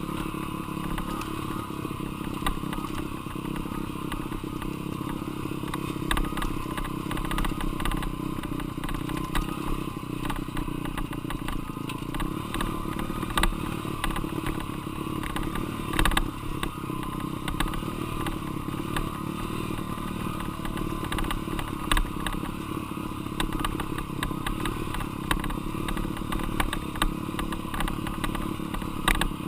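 Dirt bike engine running steadily, with frequent short clattering knocks and rattles throughout; the loudest knock comes about halfway through.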